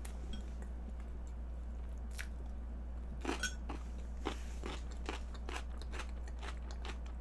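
Close-miked chewing and mouth sounds of someone eating chocolate cake: a string of short, crisp clicks and crunches, most of them between about two and six seconds in, over a steady low hum.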